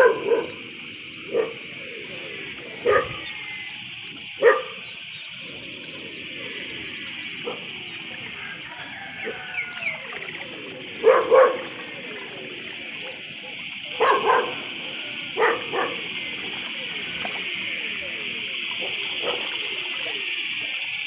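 A dog barking, single barks and short pairs with pauses between them, over a steady high-pitched drone in the background.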